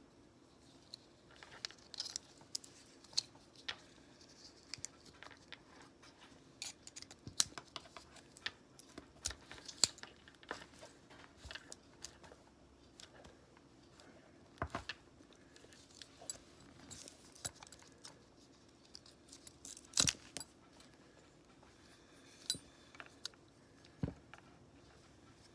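Irregular light clicks and taps of small hard objects being handled, with a few sharper knocks, over a faint steady hum.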